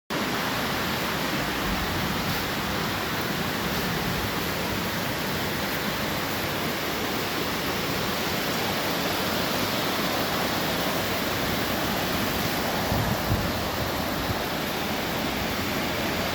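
Heavy rain pouring steadily, an even hiss without a break, with a few brief low thumps about thirteen seconds in.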